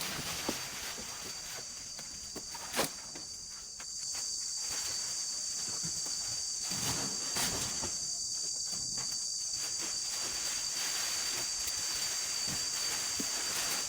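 Insects chirring steadily in a high-pitched band, growing louder about four seconds in, with a few sharp clicks and brief rustling.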